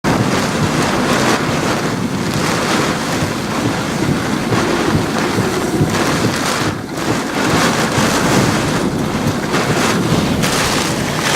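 Hurricane-force wind gusting hard and buffeting the microphone, easing briefly about seven seconds in.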